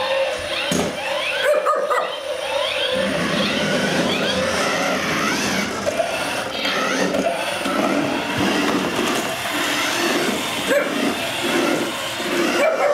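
Shih Tzu barking and yipping excitedly at radio-controlled cars, over the whirr of the cars' small electric motors.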